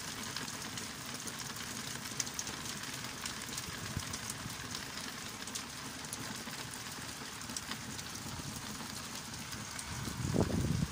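Heavy rain falling steadily, a continuous hiss of rain with the small sharp ticks of individual drops. A brief low rumble rises near the end.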